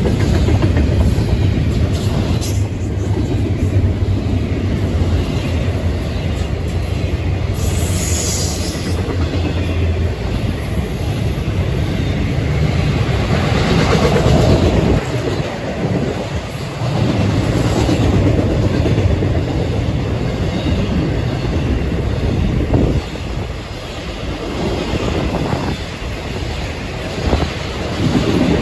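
Florida East Coast Railway intermodal freight cars rolling past: a steady rumble of steel wheels on the rails, with clacks as the wheels pass over rail joints.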